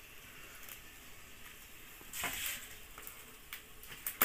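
Faint sizzling of onions and tomatoes frying in a pot over a wood fire, with scattered small crackles and a brief rustle about two seconds in.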